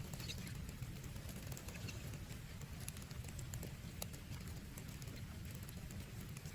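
Heavy rain falling on a tent: a steady, dense low noise with scattered sharp ticks of single drops striking the fabric.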